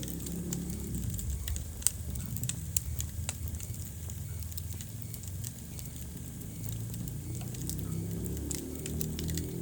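Wood fire burning in a fireplace: irregular sharp crackles and pops over a steady low rumble of the flames, with a louder pop about two seconds in.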